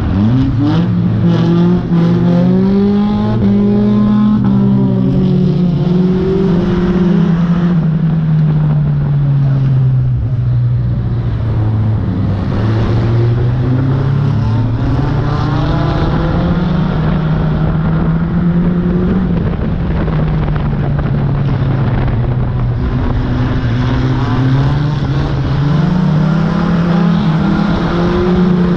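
Banger racing car's engine heard from inside its stripped-out cabin, revving up and dropping back several times as the car accelerates and eases off.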